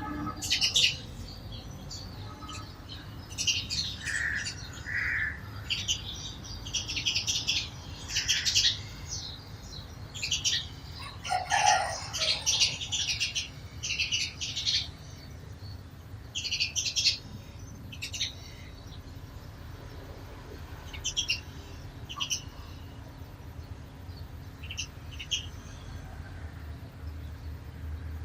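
A flock of sparrows chirping, short high chirps coming in quick clusters, busy for the first half and thinning out to scattered chirps later on.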